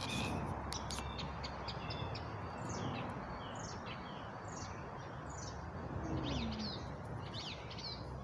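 Small songbirds chirping: a run of short, falling chirps about twice a second, over a steady low background hum. A few sharp clicks come in the first second.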